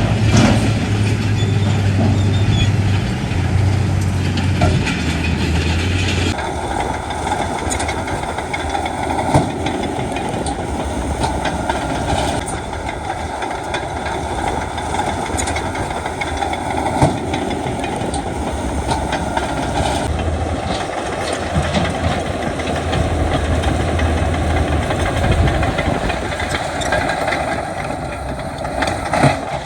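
Heavy diesel earthmoving machinery running under load, a steady low engine hum with a few sharp knocks scattered through. The sound changes abruptly about six seconds in and again around twenty seconds in.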